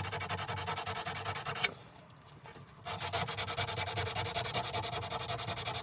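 120-grit sandpaper rubbed in quick back-and-forth strokes over a steel knife blank. The strokes stop for about a second and then start again.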